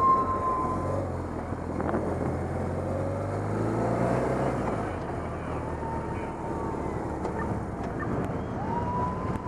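Police motorcycle engines running in a group, with a few short, high steady tones over them.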